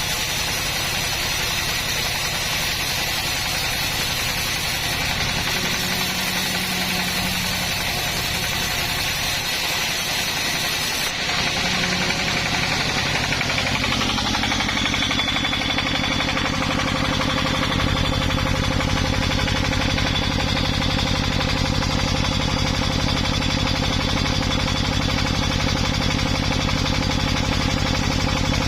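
An engine running steadily under load, its sound changing abruptly about 11 and 14 seconds in and growing heavier from about 18 seconds.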